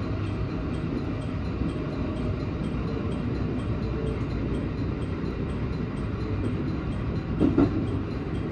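JR West 223 series 2000 electric train running, heard from the driver's cab: a steady low rumble of wheels on rail, with a brief louder bump about seven and a half seconds in.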